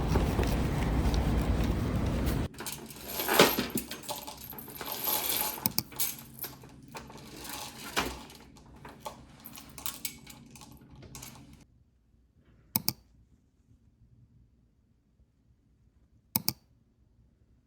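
A steady noise that cuts off about two and a half seconds in, followed by irregular clicks and clatter of small hard objects being handled, fading out. Then near silence, broken by two short sharp clicks.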